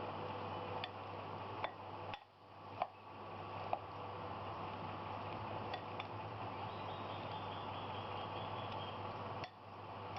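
Faint, scattered clinks of a spoon against a bowl as sliced okra is stirred together with spices, over a steady low hiss.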